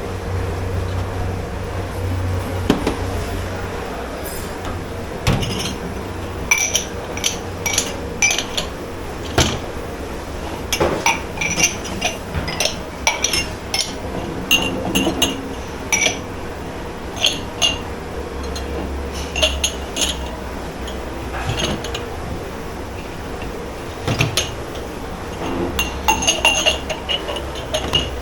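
Glasses and crockery clinking against each other as they are handled, with many short, sharp, ringing clinks from about five seconds in, over a steady low hum.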